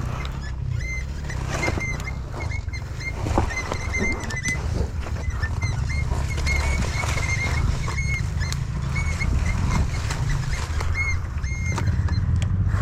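Enduro dirt bike running at low speed over a rough trail, a low fluttering engine note with scattered knocks and clicks. Short, high squeaks repeat through it.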